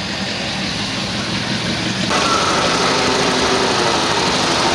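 Engines of classic American cars running as they roll slowly past at low speed. The sound changes abruptly and gets a little louder about two seconds in.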